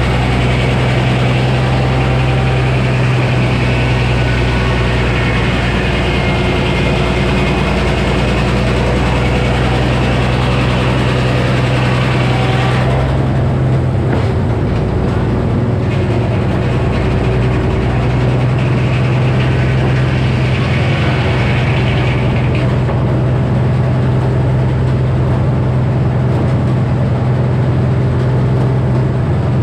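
Engine-driven Frick sawmill running with its 48-inch circular saw: a steady engine note under a higher hiss that cuts off about 13 seconds in, comes back briefly, and stops again a little past 22 seconds.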